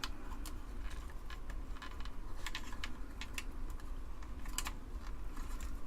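Scattered light clicks and taps of small hand tools working a loosened electrolytic capacitor out of a circuit board, with a low steady hum underneath.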